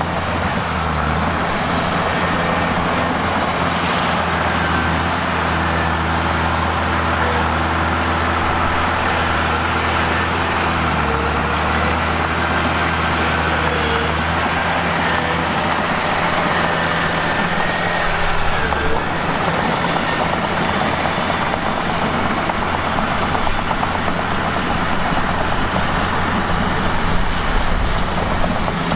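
Mitsubishi bulldozer's diesel engine running steadily while working, its note shifting about a third of the way in and again about two thirds through, with a faint higher whine above it.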